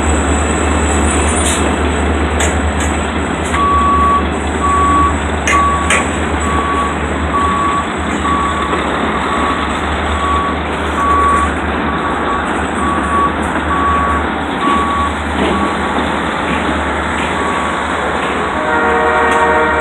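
Freight train of boxcars and loaded flatcars rolling steadily past with a low rumble and occasional clanks. From a few seconds in there is a steady electronic beeping, just under two beeps a second, and a set of steady tones joins near the end.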